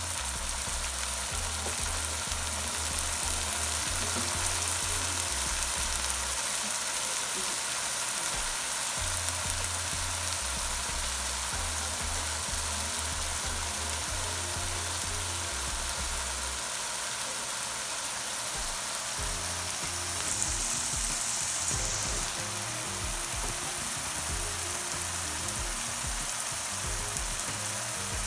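Onion paste frying in oil in a pan with a steady sizzle, being cooked down so it loses its raw smell.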